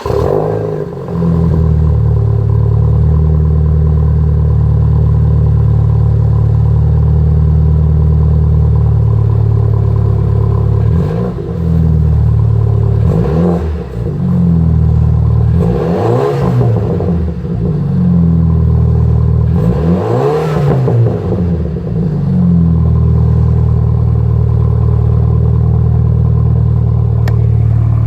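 Muffler-deleted BMW 328i N26 turbocharged 2.0-litre four-cylinder just after a cold start, its exhaust flaring at the start and then idling loudly and steadily. In the middle it is given several quick throttle blips that rise and fall in pitch, then it settles back to idle.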